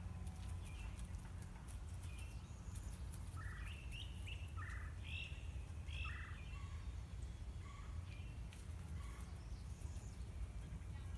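A bird calling a short series of four or five brief notes in the middle, over a steady low background rumble.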